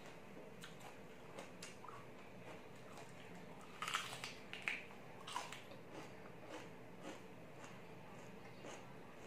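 Close-up biting and chewing of a piece of raw green bell pepper: a cluster of crisp crunches about four seconds in, the loudest part, with faint chewing clicks through the rest.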